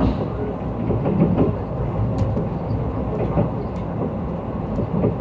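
Mugunghwa passenger train running along the track, heard from inside the coach: a steady low rumble with a few sharp clicks from the wheels over the rails.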